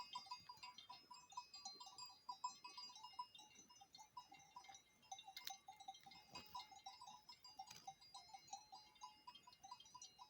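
Faint, irregular tinkling of small bells on grazing livestock, many short ringing notes overlapping, with a couple of soft clicks about halfway through.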